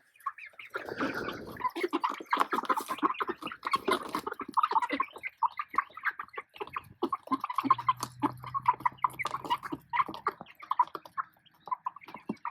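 A flock of young black Australorp pullets clucking and chirping, many short calls overlapping. A brief rustle comes about a second in, and a low steady hum runs for a couple of seconds in the second half.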